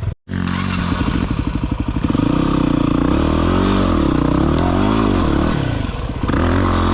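Single-cylinder four-stroke dirt bike engine being ridden over rough ground, its revs rising and falling repeatedly with the throttle, with some clatter. The sound drops out for a split second right at the start.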